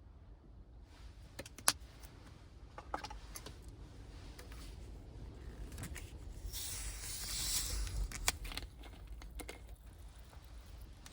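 Objects being handled at close range: scattered sharp clicks and light knocks, with a longer hissing rustle a little past the middle, over a steady low rumble.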